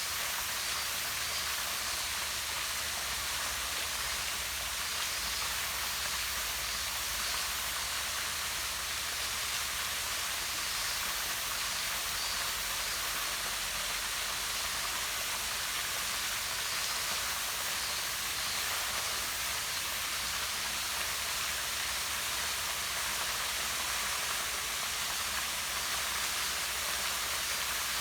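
Small waterfall falling down a rock face into a pond, a steady, unbroken rush of splashing water.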